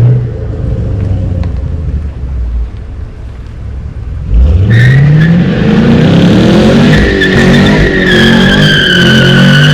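A car engine runs at low revs, then about four seconds in it revs up hard and stays loud. The tyres spin with a high, wavering squeal.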